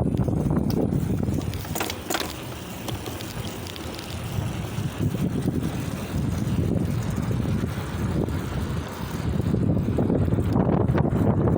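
Wind buffeting the microphone during a bicycle ride, a low rushing that eases off a couple of seconds in and builds again near the end, with a couple of brief clicks about two seconds in.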